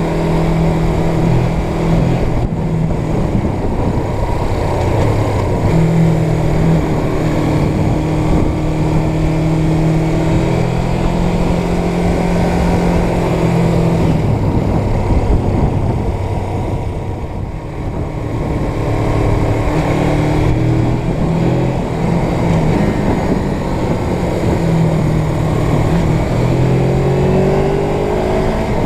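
Suzuki GS 500 air-cooled parallel-twin engine running under way, its pitch stepping up and down with throttle and gear changes and rising near the end as it accelerates. Heavy wind rush on the microphone runs underneath.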